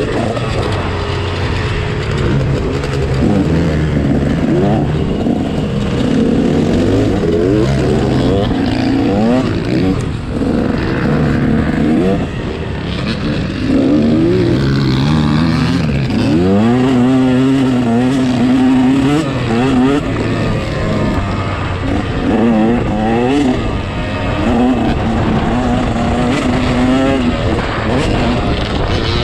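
Motocross dirt bike engine revving hard and dropping back over and over, pitch climbing through each gear and then falling as the throttle is shut.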